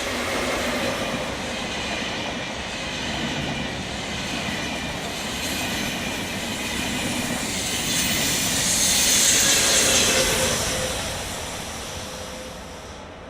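A train passing on the line, its wheels running on the rails: the sound comes up quickly at the start, grows loudest about three quarters of the way through, then fades away.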